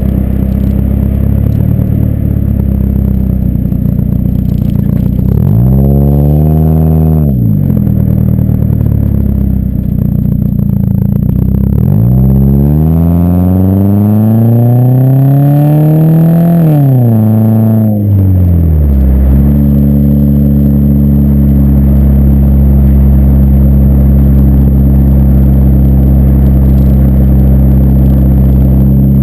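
Ford Focus four-cylinder engine through a BWR aftermarket exhaust, driving at a steady drone. About five seconds in the engine note rises briefly and drops back. From about twelve seconds a longer pull climbs in pitch, falls away again near seventeen seconds, and settles into a steady drone.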